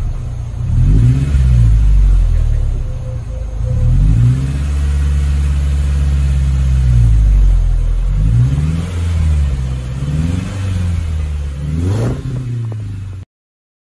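Subaru XV's flat-four boxer engine revving through an aftermarket Kakimoto-style rear-section exhaust. The exhaust note climbs and falls, is held higher for a few seconds, then gives several quick blips before it cuts off abruptly near the end.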